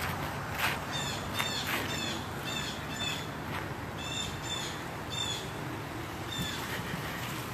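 A bird calling: a run of short repeated calls, about two a second, for several seconds, trailing off near the end.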